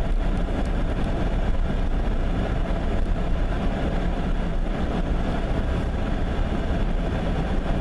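Steady low rumble of a truck's engine and road noise, heard from inside the cab.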